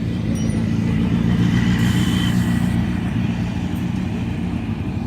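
A vehicle engine running steadily at idle, with a slight swell about a second in.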